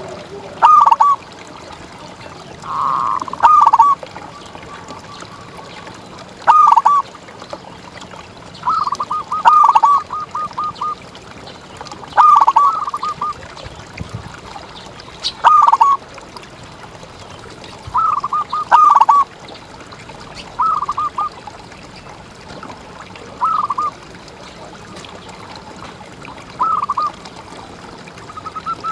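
Zebra dove (perkutut) cooing: a phrase of quick, stuttering coos about every two to three seconds, some phrases trailing off in a run of rapid short notes.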